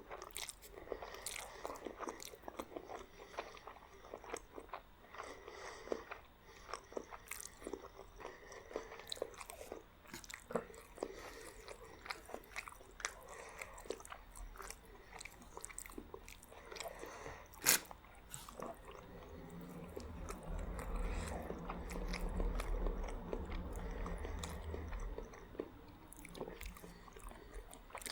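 Close-miked eating of spaghetti and garlic bread: steady chewing, biting and crunching with many short clicks, one sharp snap a little past the middle, and a low rumble for several seconds about two-thirds of the way in.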